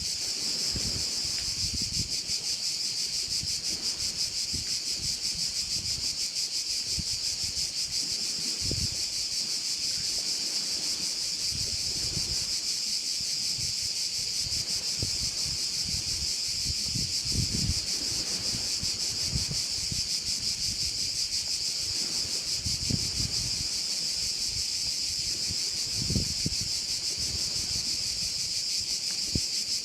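A dense, unbroken chorus of crickets, a steady high shrill buzz. Low gusts of wind rumble on the microphone now and then.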